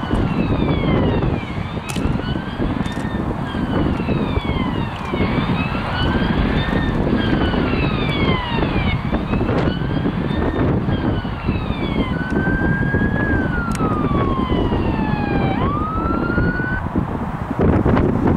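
Several emergency-vehicle sirens wailing at once, their overlapping rising-and-falling tones cycling about every two seconds over a heavy low rumble. Near the end one slower wail rises, falls and sweeps back up, then the sirens stop.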